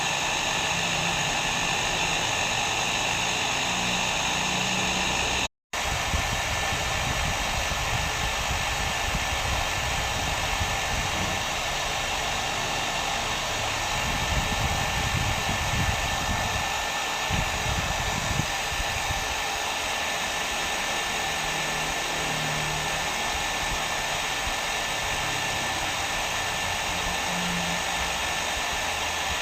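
Hair dryer blowing steadily, a continuous even whoosh. About five seconds in it cuts out for a split second, then resumes with a slightly different tone.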